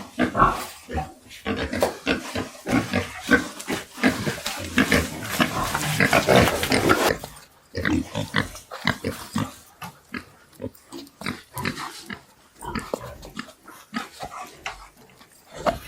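Pigs grunting: a dense, busy stretch for about the first seven seconds, then fewer, scattered grunts and small knocks.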